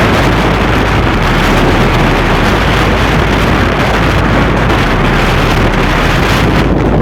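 Strong wind blasting across the microphone, a loud steady rumble and roar.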